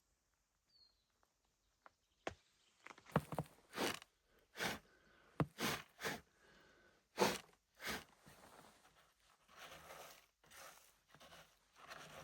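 Footsteps crunching in deep snow. They start about two seconds in as a run of loud steps, roughly one every 0.7 seconds, then carry on softer and more smeared for the last few seconds.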